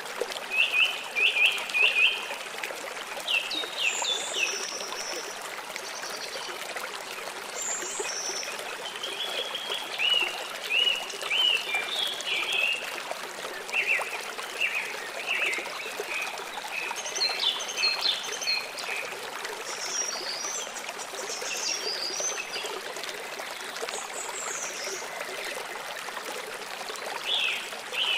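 Water flowing and trickling steadily, with small birds chirping and trilling on and off over it, in clusters of quick high notes.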